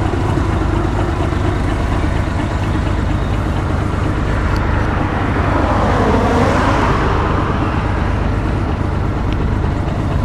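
A bus engine running with a steady low rumble; a louder rush of noise swells and fades over it about six seconds in.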